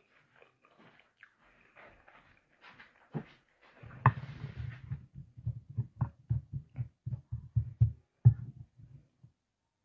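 Close-up eating sounds: faint mouth noises at first, then from about four seconds in a run of soft rhythmic chewing and lip-smacking at roughly four chomps a second, with a few sharper clicks.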